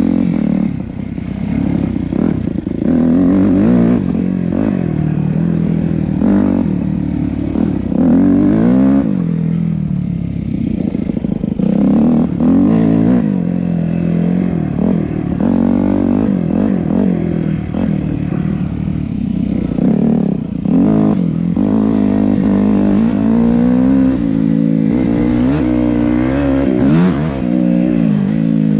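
Yamaha YZ250F's 250 cc four-stroke single-cylinder engine being ridden, its pitch climbing and falling many times as the throttle is worked.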